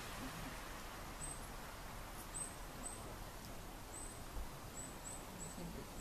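Thin, very high-pitched call notes of a small bird: about seven short notes, repeated irregularly, starting about a second in, over faint outdoor background noise.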